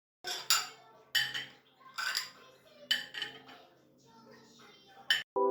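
Cutlery and dishes clinking: about five sharp clinks with short ringing, spread over the few seconds.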